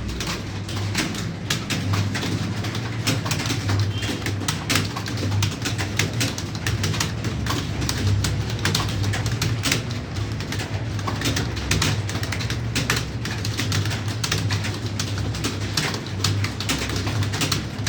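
Computer keyboard being typed on: a rapid, irregular run of key clicks over a steady low hum.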